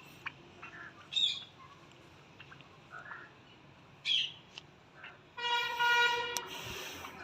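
Short bird calls and chirps from a poultry yard, then about five seconds in a loud, steady, horn-like tone lasting about a second, followed by a brief noisy burst.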